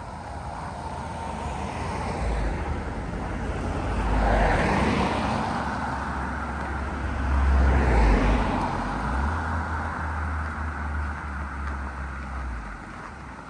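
Two vehicles drive past one after the other, each a swelling then fading rush of engine and tyre noise, the second about three and a half seconds after the first. Wind buffets the microphone throughout.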